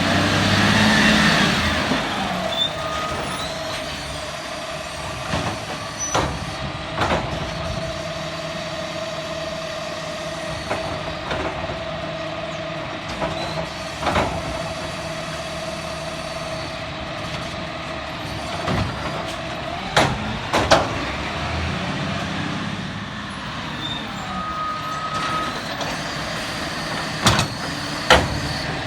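Garbage truck at work: a hiss of air for the first couple of seconds, then a steady whine under the running truck, with a handful of sharp knocks and bangs spread through, two close together about two-thirds of the way in.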